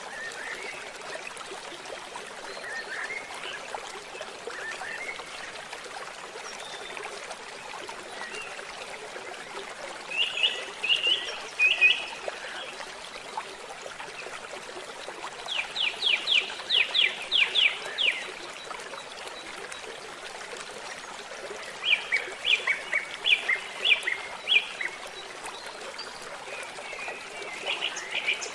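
Steady trickling of a forest stream, with a bird calling in several bouts of quick repeated high notes, the longest a run of about ten notes midway.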